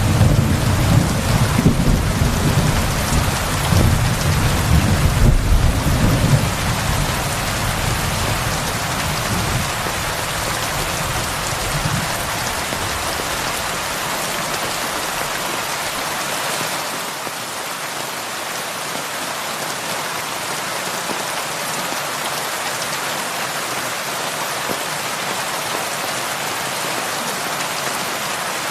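Heavy rain falling steadily, with a low rolling rumble of thunder at the start that dies away over the first dozen seconds, leaving only the even hiss of the rain.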